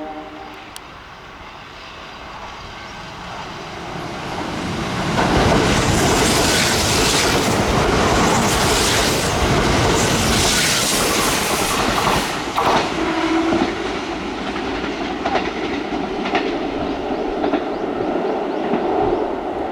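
Kintetsu electric train running past on the rails, its wheels clattering over the rail joints. The noise builds over the first few seconds and is loudest between about five and twelve seconds in, then runs on more quietly.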